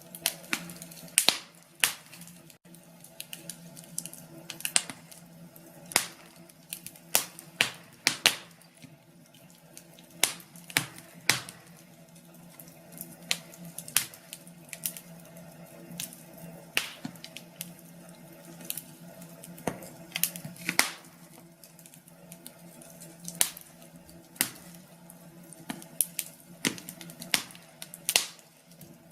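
Wood fire in a fireplace crackling, with sharp irregular pops and snaps, several a second at times, over a faint steady hum.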